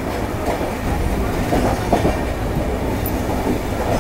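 Passenger train running and gathering speed, heard from inside a chair-car coach: a steady rumble of wheels on the track with a few clicks and knocks from the rail joints.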